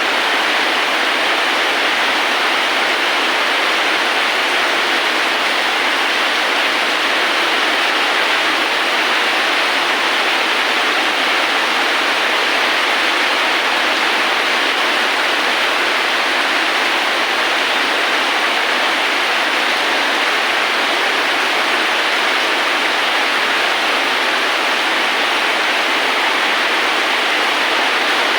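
Steady rain, an even, unbroken hiss with little bass and no single drops or thunder standing out.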